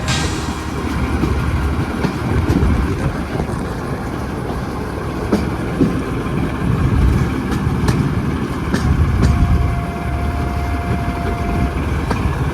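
Railway locomotive running, a heavy low rumble that swells and eases, with a few sharp clicks and a faint steady high tone for about two seconds late on.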